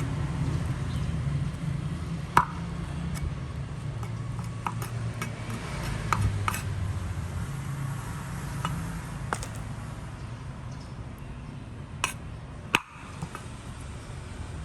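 A handful of light clinks and taps of small hard objects, scattered irregularly, over a low steady rumble.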